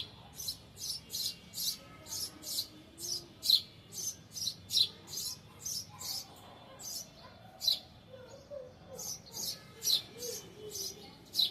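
A small bird chirping over and over: short, high chirps coming about three a second, with a pause of a second or so about two-thirds of the way through.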